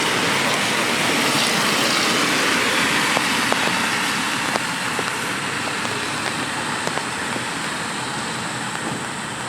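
Steady hiss of rain on a wet city street, with scattered drops ticking close by and the tyre hiss of traffic on the wet road slowly easing off.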